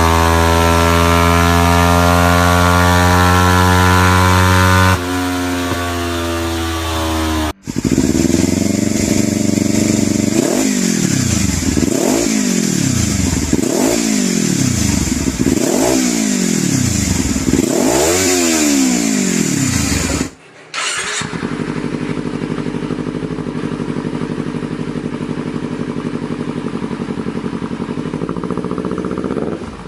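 Kawasaki Ninja parallel-twin sport bike engine with an aftermarket exhaust, in three clips: first held at high revs, dropping a little about five seconds in; then blipped up and down about five times; then idling steadily.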